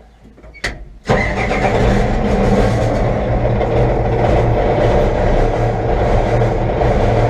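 Michigan loader's 5.9 Cummins diesel engine firing up on a shot of ether: it catches suddenly about a second in and keeps running steadily.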